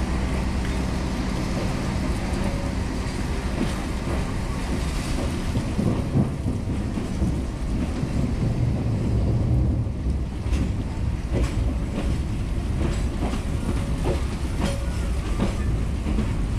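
Passenger train running close alongside on the next track, a steady rumble of wheels on rails that swells in the middle. From about ten seconds in, a run of sharp clickety-clack clicks as wheels cross rail joints.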